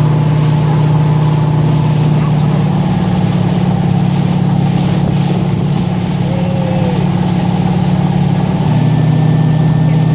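Boat engine running at a steady speed, a constant low drone whose note shifts slightly near the end.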